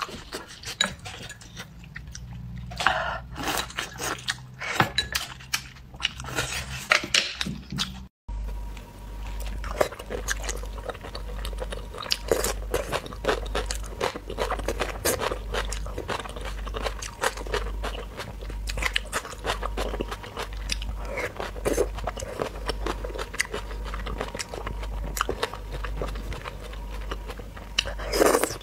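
Close-miked eating sounds: irregular chewing, biting and crunching with wet mouth clicks, first of a dumpling dipped in soy sauce, then, after a cut about eight seconds in, of a spicy raw shrimp and cucumber salad.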